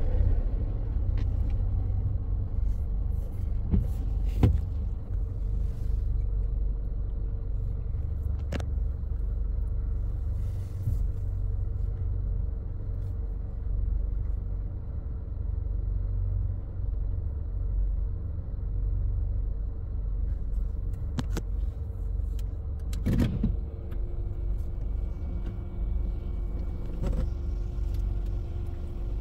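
Car engine idling, a steady low rumble, with a faint steady hum that drops slightly in pitch about two-thirds of the way through and a few sharp clicks.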